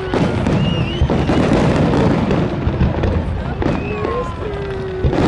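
Aerial fireworks shells bursting overhead: several sharp bangs a second or more apart over a continuous rumble and crackle of the display.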